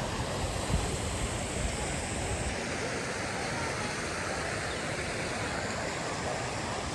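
Fountain water splashing steadily: an even rush of falling water.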